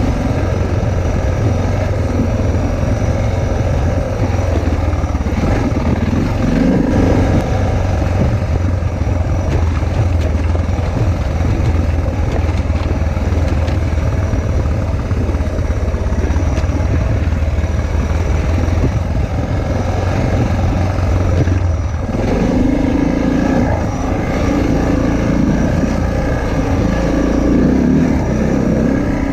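Motorcycle engine running under way with wind noise, its note changing a few times as the throttle varies.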